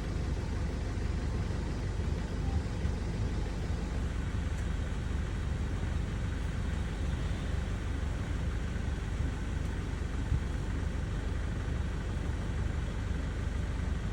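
Steady low rumble with a lighter hiss over it, even throughout, with no distinct calls or knocks standing out.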